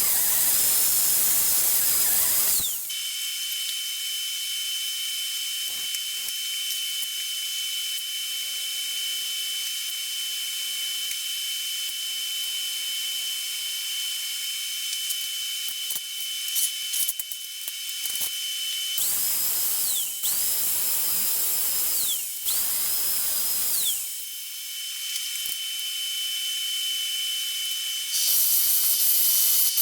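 A high-speed power tool whining and hissing with a steady high tone. Near the end it makes three short runs, each spinning up and winding down.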